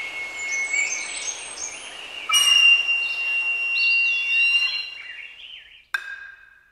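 Birds calling: long held whistled notes and short chirping phrases that step and curve in pitch, over a faint hiss. About six seconds in comes a single sharp click with a brief ring, and the sound fades out.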